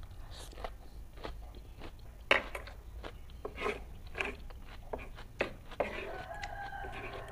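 Crunching bites and chewing of a piece of raw cucumber: a string of sharp crunches, the loudest about two seconds in. Near the end a steady held tone lasts about a second and a half.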